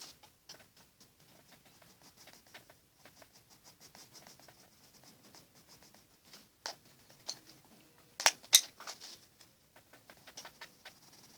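Watercolour pencil scratching on paper in many quick short strokes, with two sharp taps about eight seconds in.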